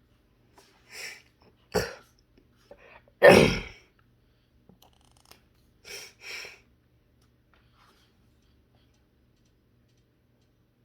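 A man sneezes once, loudly, about three seconds in, with shorter breathy sounds before it and two short sniffs about three seconds later. The sneezing goes with his sinuses acting up badly.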